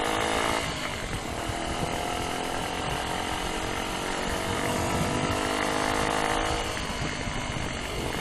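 Rusi KR125 motorcycle engine pulling on the road, its pitch climbing, dropping at a gear change about half a second in, climbing again and easing off near the end, with heavy wind noise throughout.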